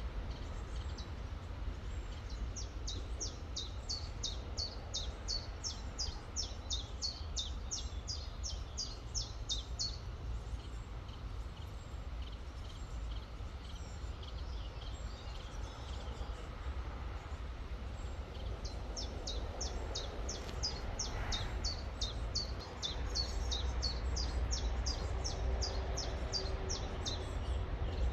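A songbird singing two long runs of quick, high, repeated notes, about three a second. The first starts a few seconds in and the second runs from the middle to near the end. Under it is a steady low rumble with a faint hiss.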